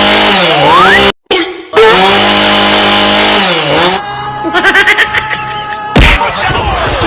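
Chainsaw engine revving, its pitch dipping and climbing back several times, with a sharp cut-out just after a second in. A pulsing passage follows, and a heavy thump comes about six seconds in.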